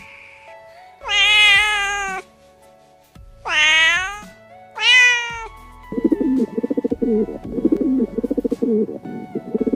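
Kitten meowing three times in quick succession, then pigeons cooing in a low, rapidly pulsing run from about six seconds in, over faint background music.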